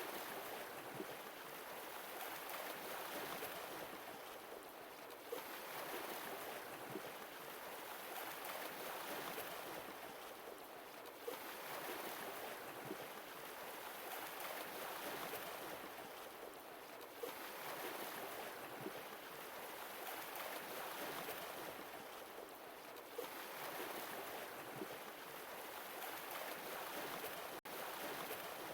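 Sea waves washing in and drawing back, each swell rising and falling about every six seconds, with faint small pops in the wash. The sound cuts out for an instant near the end.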